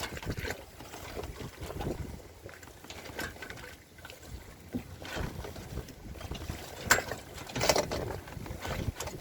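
Sailboat underway in choppy water: waves splashing and rushing against the hull, with wind buffeting the microphone. The splashes come irregularly, a louder cluster near the end.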